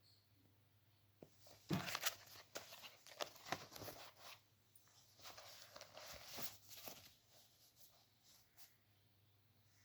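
A kitten playing: irregular rustling, scraping and tapping noises, loudest about two seconds in and dying away after about seven seconds.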